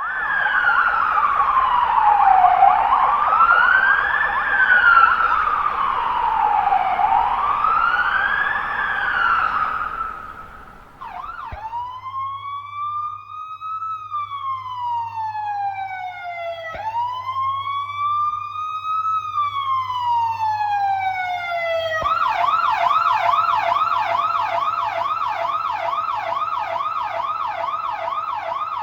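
Electronic siren cycling through its tones: a slow rising-and-falling wail for about ten seconds, then slower rising sweeps that drop away sharply, then a fast yelp from about two-thirds of the way in. It is sounding as the warning signal for a civil-defence mock drill.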